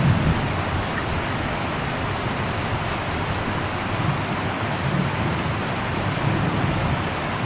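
Heavy rain drumming steadily on an old metal roof. A low rumble of thunder dies away in the first moments.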